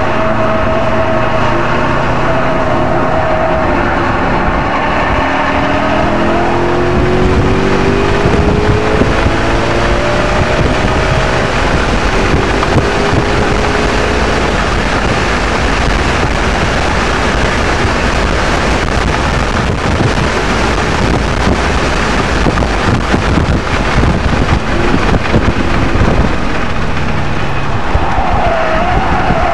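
2007 Audi RS 4's 4.2-litre V8 driven hard on a race track, heard from inside the cabin under heavy wind and road noise. The engine note rises in pitch as it accelerates, and a steady high whine is heard near the start and again near the end.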